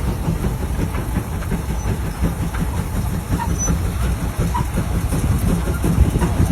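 Steam traction engine running, a steady low rumble with rapid, uneven clatter.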